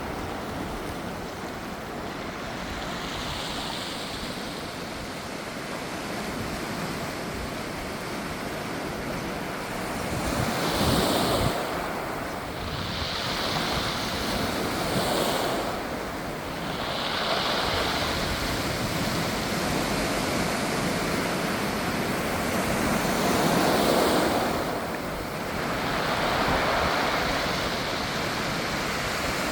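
Sea waves washing in and out over a shore of round pebbles, swelling and ebbing every few seconds, with a hissing rattle of the pebbles being rolled by the water on several of the surges.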